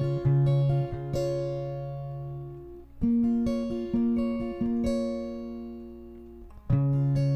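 Acoustic guitar intro: chords plucked and left to ring out, moving to a new chord about every three seconds.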